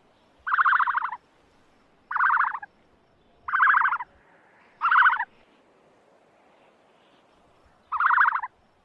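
An animal calling five times: short pulsing, rattling calls about half a second long, spaced a second or more apart, with a longer gap before the last.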